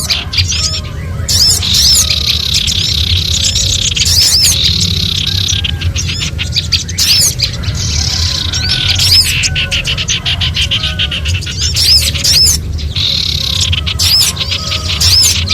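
A loud, busy mix of small birds' alarm calls: rapid, repeated chips and scolding chatter from several birds at once, a lure recording of frightened birds, over a steady low hum.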